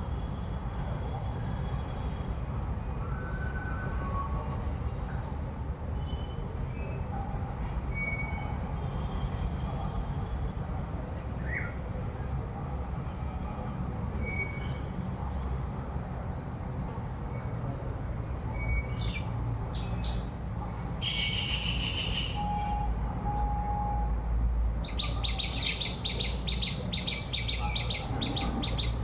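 Small birds chirping in short high notes, with a louder call about two-thirds of the way in and a rapid trill near the end, over a steady low rumble and a steady high-pitched hum.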